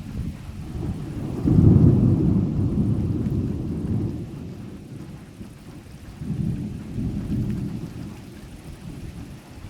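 Thunder rumbling low, swelling sharply about a second and a half in and dying away over a few seconds, then a second, weaker rumble, over the steady noise of a heavy downpour.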